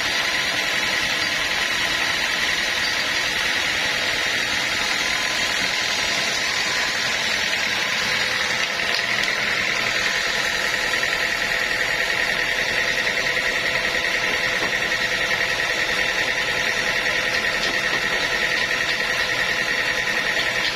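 Sawmill machinery running steadily: a continuous mechanical drone with a high, even whine that shifts slightly about halfway through.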